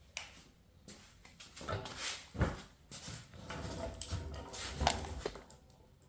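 Handling noise of tools and parts being moved: a series of irregular clicks and knocks.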